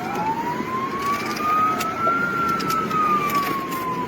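Police car siren wailing: one slow rise in pitch over about two seconds, then a slow fall, over steady engine and road noise from the moving car.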